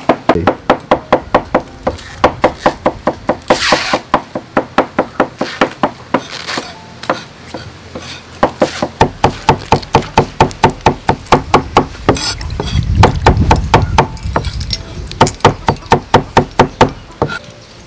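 Knife chopping on a wooden cutting board: quick runs of sharp strokes, about five a second, with short breaks between runs.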